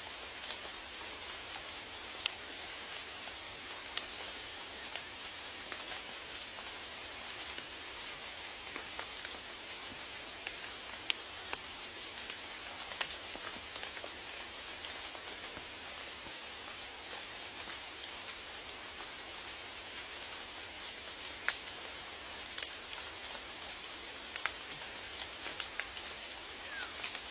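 Steady rain, an even hiss with the sharp ticks of individual drops landing now and then.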